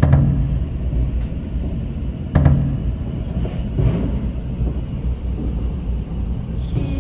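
Steady low rumbling noise with two brief knocks, one at the start and one about two and a half seconds in; music comes in near the end.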